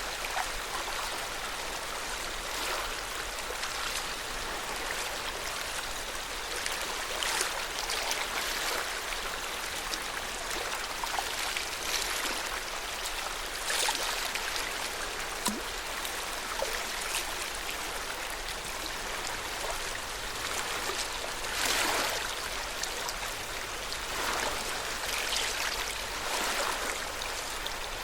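Lake water lapping at the shore: a steady watery wash broken by small irregular splashes every second or two.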